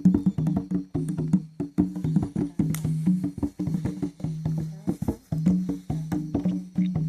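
Rhythmic percussion music: a quick, steady run of sharp wooden knocks over short, low, pitched notes that step between a few pitches.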